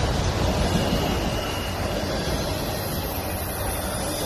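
CSX freight train of autorack cars rolling past at close range, a steady rumble of steel wheels on the rails.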